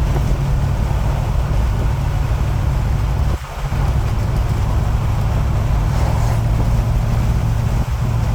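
The swapped engine of a 1953 GMC panel truck and road noise, heard from inside the cab with the windows down while driving. It is a steady, low drone that dips briefly about three and a half seconds in.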